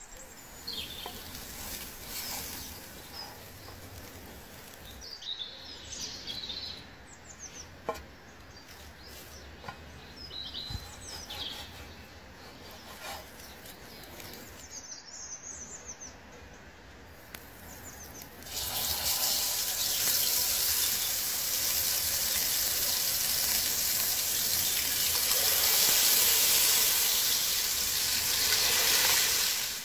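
Small birds chirping now and then over a quiet outdoor background. About two-thirds in, a loud, steady sizzle starts suddenly: beef burger patties frying in a hot pan over a wood fire.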